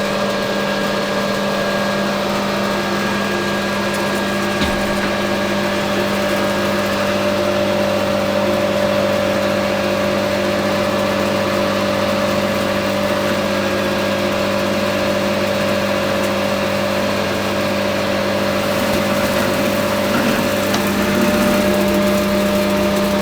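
Hafco AL960B metal lathe running steadily under power while taking a deep turning cut on a 316 stainless steel bar, the kind of cut that throws stringy 'bird nest' swarf. The lathe is switched off at the very end and starts to wind down.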